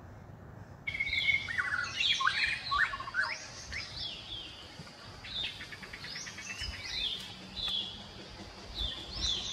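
Birds chirping and singing in a run of varied whistled calls and quick trills that start abruptly about a second in.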